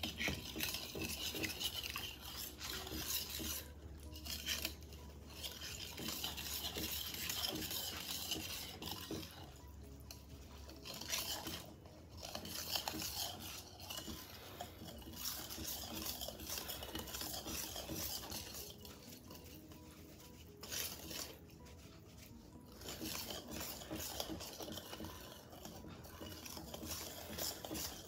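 Wire whisk stirring flour into cake batter in a glass bowl, its wires scraping against the glass in quick strokes, stopping briefly several times.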